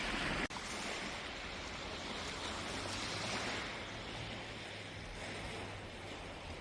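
Steady wash of small waves breaking on a beach, with a momentary dropout about half a second in.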